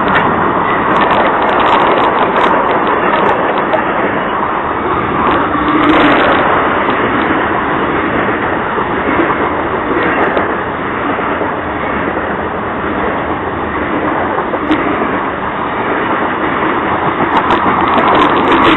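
A train rolling past close by: a steady rush of steel wheels on rail with scattered sharp clicks and clanks, thickest in the first few seconds and near the end.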